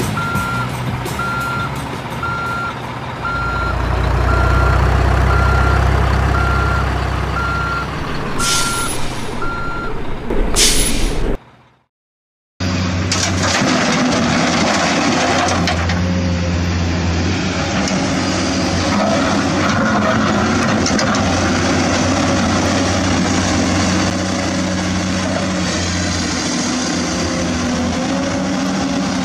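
A heavy truck's reversing alarm beeps about one and a half times a second over a running diesel engine, with two short hisses just before it stops, about eleven seconds in. After a second of silence, a truck engine runs steadily.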